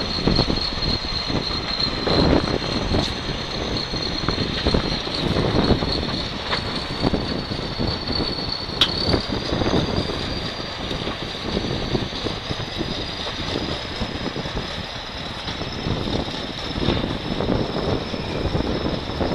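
Engine noise during an aircraft tow: a steady rumble with a constant high-pitched whine, and a couple of sharp clicks.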